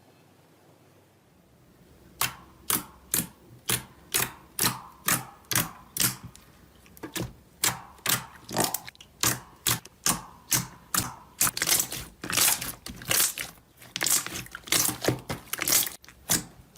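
Crunchy material being crushed by hand: a steady run of crisp, sharp crunches at about two a second, starting about two seconds in and coming closer together in the second half.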